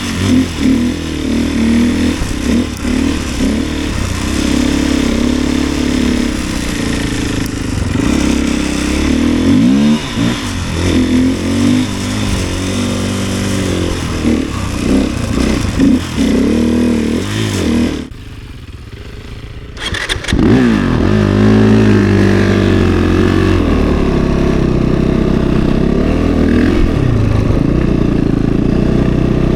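Snowbike engine (a 450 cc single-cylinder four-stroke dirt-bike motor) running under throttle, its pitch rising and falling as the rider works the gas through the snow. It drops away for about two seconds near two-thirds of the way in, then settles into a steadier drone.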